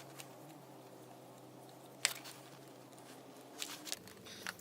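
A single sharp click about two seconds in and a few fainter clicks near the end, over low room tone: small carburetor parts and tools being handled during disassembly.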